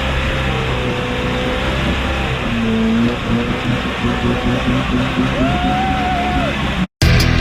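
Off-road truck engine running and revving, with a pitch that rises and falls. Near the end it cuts off abruptly and loud heavy rock music starts.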